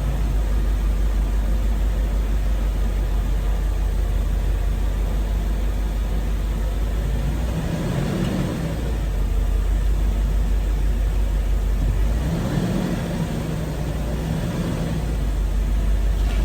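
Mercedes-Benz 560SL's 5.6-litre V8 running on a cold start, after the car has sat for about a week. The note changes briefly about halfway through and again near the three-quarter mark.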